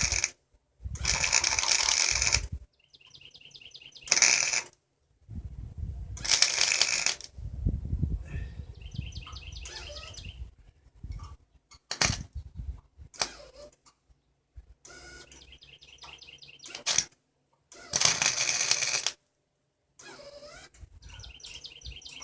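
Gasless flux-core MIG welder arc crackling in short bursts of one to two seconds, stopping and restarting several times, with a few sharp clicks between. The welder is struggling to get the weld to stick.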